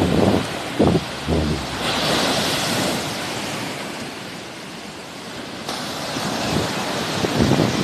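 Sea waves breaking and washing up the shore, swelling about two seconds in and again near six seconds. Wind buffets the microphone in low gusts near the start and near the end.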